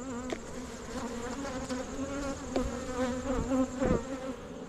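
Honey bees buzzing close around an opened hive, a steady hum with single bees passing near and their pitch wavering up and down; the colony is testy. A few sharp clicks cut in.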